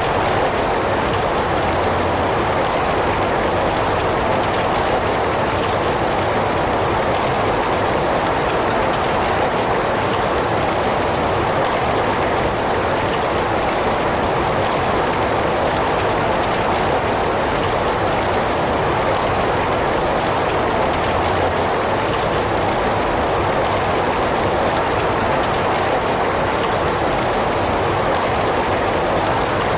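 Heavy rain falling steadily, a dense, even hiss strongest in the middle of the range, with no single drops or changes standing out.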